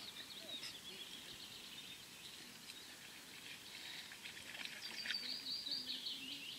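Small birds singing and chirping, with a quick run of repeated high notes a little past the middle.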